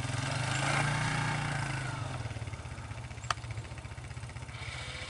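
An old snowblower's small engine running steadily, swelling about a second in and then fading. A single sharp click about three seconds in.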